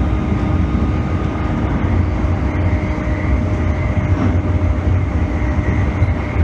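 E531 series electric multiple unit running along the line, heard from inside the car: a steady, loud rumble of the wheels on the rails with a few steady tones over it, one dropping out about two seconds in and another about five seconds in.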